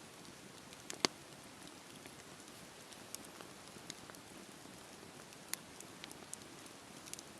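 Wood fire burning: a steady soft hiss with scattered sharp crackles and pops, the loudest about a second in and another about five and a half seconds in.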